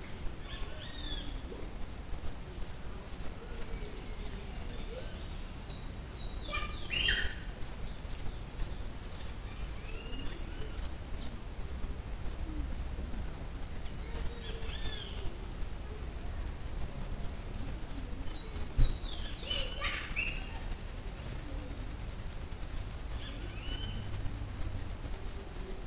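Wild birds calling outdoors: clusters of short, falling whistled notes, several times, over a constant low rumble. A fast, high ticking runs underneath and becomes a steady high buzz in the last few seconds, and there is one sharp click about nineteen seconds in.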